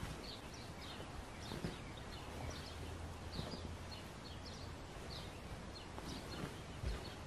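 Small birds chirping over a steady outdoor hush, short high calls several times a second. A few soft low knocks and rustles come from a fur hide being handled and laid against a wooden backrest.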